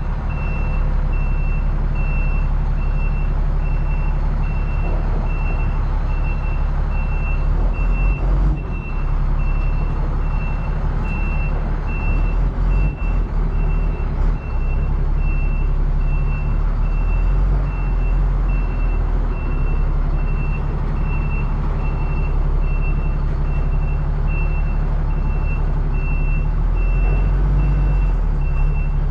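Roll-off truck's engine running as it reverses, with its backup alarm beeping steadily about once a second.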